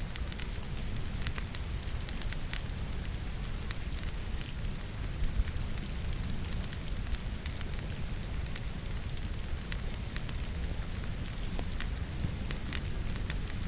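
Wood logs crackling in a fireplace, with irregular sharp pops over a steady low rumble, mixed with steady rain.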